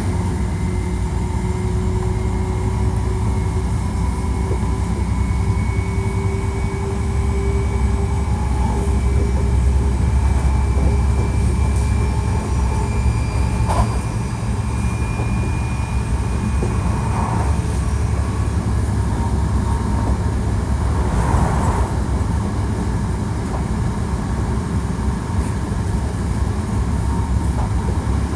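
Hankyu 1300 series electric train running at speed, with a steady low rumble of wheels on rail. A faint traction-motor whine from its Toyo IGBT-VVVF inverter rises slowly in pitch and then fades out about halfway through. A few sharp clicks from the track break in.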